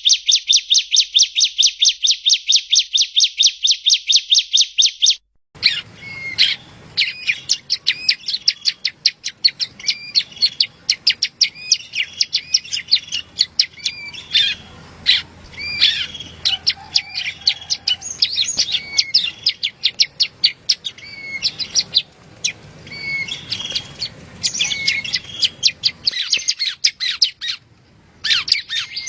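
Yellow-bellied prinia (prenjak rawa) song. For about the first five seconds it is a rapid, even string of sharp chirps, about seven a second. After a brief break a different recording takes over, with more varied chirps and trills over a faint background hum.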